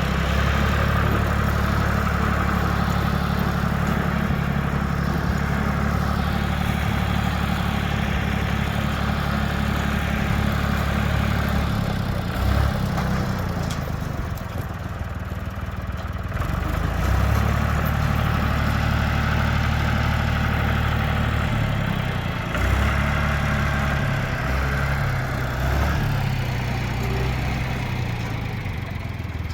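An engine running: the machine used to carry a lift cage. It runs steadily, drops back about twelve seconds in, picks up again around seventeen seconds, then changes speed in a few steps before easing off near the end.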